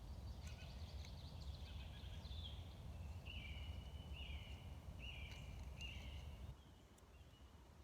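A songbird singing in woodland, a run of short high phrases repeated four times in a row, over a low rumble that drops away near the end.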